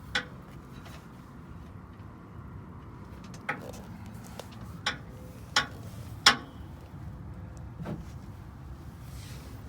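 About six sharp knocks at irregular intervals, the loudest a little past six seconds in, over a low steady rumble.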